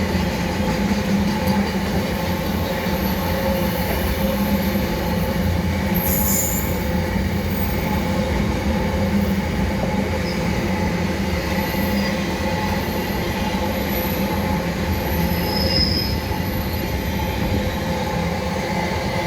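A fast car carrier freight train rolling past over the level crossing: a steady, continuous rumble of wheels on rail with a faint high squeal from the wheels that comes and goes.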